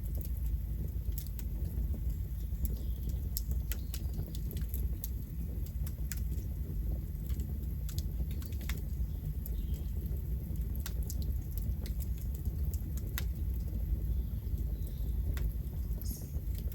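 Campfire burning, wood crackling with frequent irregular sharp pops over a steady low rumble of the flames.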